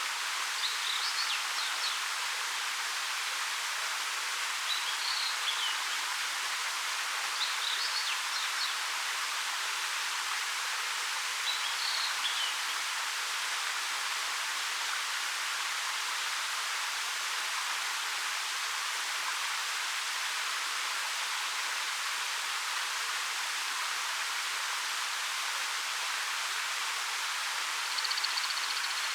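Steady rushing of a 13 m waterfall pouring over rock. A few short, high bird chirps come through it in the first half, and a brief trill sounds near the end.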